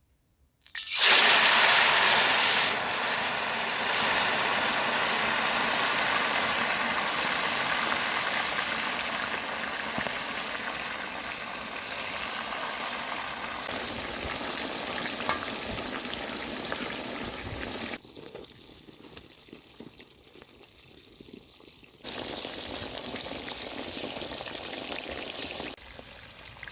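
Food sizzling in hot oil in a pan: the sizzle starts suddenly about a second in, is loudest at first, then settles to a steady sizzle. It drops sharply to a much quieter stretch, then comes back for a few seconds near the end.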